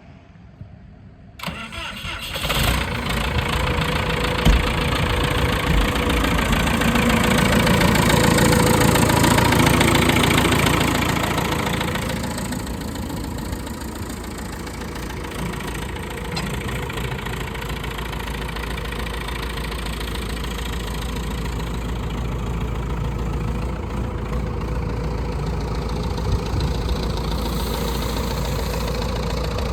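1985 Versatile 276 bi-directional tractor's diesel engine turning over and starting about a second and a half in. It runs at raised revs for several seconds, then drops to a steady idle at about 12 seconds.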